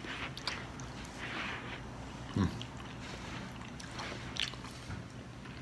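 A person chewing a mouthful of stir-fried noodles and vegetables, with a few faint clicks.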